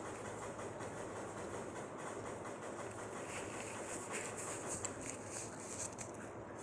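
Steady background noise with a few faint short clicks in the second half.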